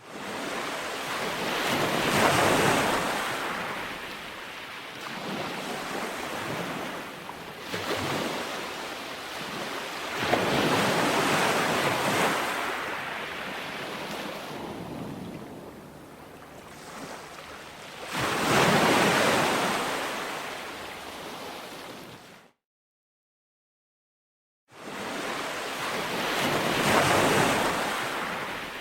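Ocean surf breaking on a shore, wave after wave, each a surge of rushing water that swells and fades over several seconds. The sound cuts out completely for about two seconds about three-quarters of the way through, then the surf resumes.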